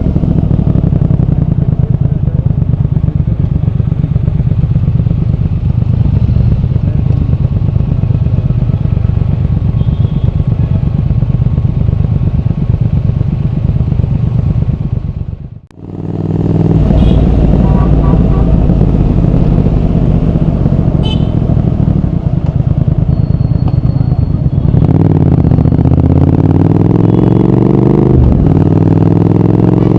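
Triumph Speed Twin 1200's parallel-twin engine and exhaust running under way at a steady pace. The sound drops away for a moment about halfway and comes back, and near the end the engine note rises in pitch as the bike accelerates.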